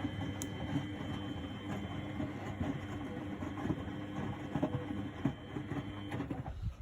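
The drum of a 1999 Miele Novotronic W828 front-loading washing machine turning in a wash tumble: the motor hums with a thin steady whine while the laundry churns. The motor stops shortly before the end, as in the pause before the drum reverses.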